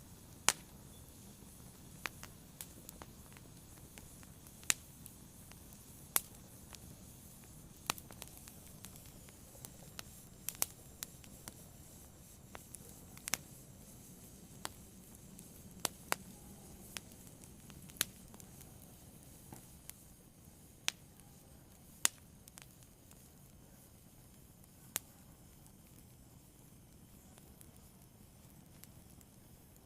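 Fire burning, with sharp irregular crackles and pops, one every second or two, over a soft steady low hiss. The pops thin out near the end.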